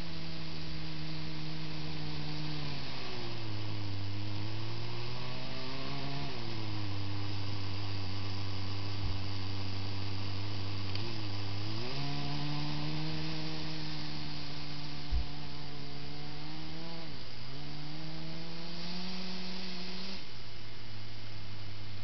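Electric drive motors and gearboxes of a Kyosho Blizzard RC snow groomer whining steadily. The pitch drops and climbs back up several times as the motor speed changes, with a couple of small clicks.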